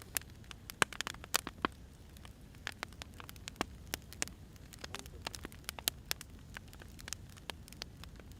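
Wood fire crackling: irregular sharp pops and snaps over a low, steady rumble, busiest in the first couple of seconds.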